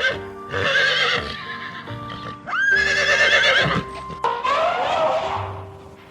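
Horse whinnying, three wavering calls of about a second each, the middle one opening with a sharp rise in pitch, over background music with steady low notes.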